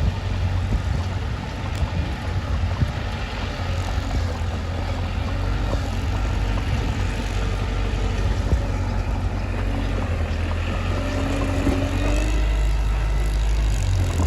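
Mitsubishi bulldozer's diesel engine running steadily with a deep low rumble, getting slightly louder near the end.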